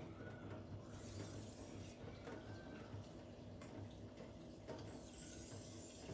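Cleaver's edge drawn across a silicon carbide whetstone in two long, light rasping strokes, one about a second in and one near the end, to flip and knock down the remaining burr. A steady low hum sits underneath.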